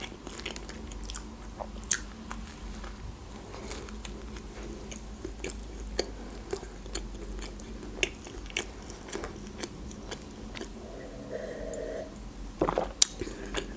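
Close-miked chewing of a mouthful of McChicken burger, with soft bite crunches and wet mouth clicks. Near the end come a few swallows of water from a glass.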